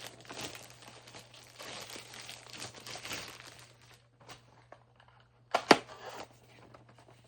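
Packaging crinkling and tearing as a model train item is unwrapped by hand, for about four seconds. About five and a half seconds in comes a loud, sharp double click.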